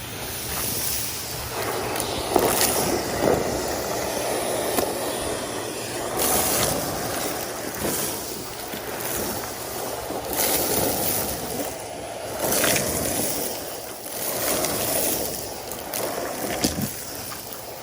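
Numatic Henry canister vacuum running and sucking up debris, its suction noise rising and falling every couple of seconds as the nozzle works over the pile, with occasional sharp clicks of grit going up the hose.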